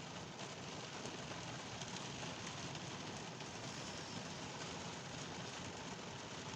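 Steady rainfall, a soft even hiss of rain on the ground and surfaces, as a thunderstorm eases off.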